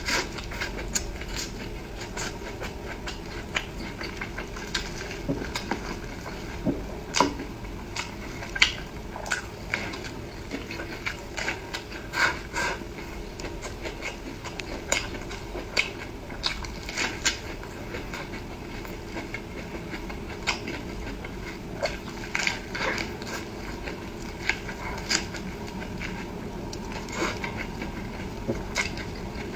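Close-up eating sounds: irregular chewing and mouth clicks, several a second, with now and then a sharper click, over a steady low hum.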